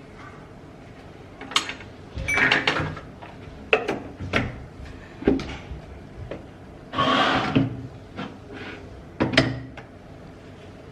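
Knocks and clatter of a blender jar and its lid being handled and set down, about eight separate knocks spread unevenly, with a short rushing burst about seven seconds in. The blender motor is not running.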